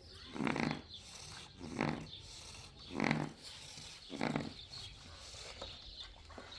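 An animal calling four times, evenly spaced about a second apart, each call short and loud.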